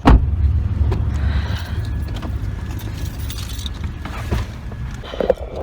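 A car door shuts with a single heavy thump, followed by a steady low rumble that eases off after about four seconds. Small clicks and rattles come near the end.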